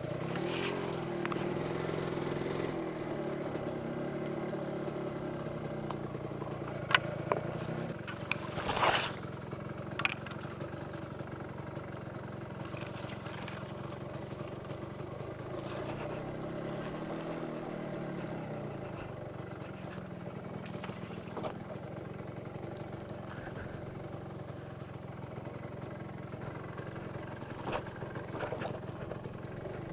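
Yamaha RZX two-stroke motorcycle engine running steadily at low road speed. Its pitch dips and picks up again about halfway through as the throttle is eased off and reopened. There are a few short knocks around a third of the way in.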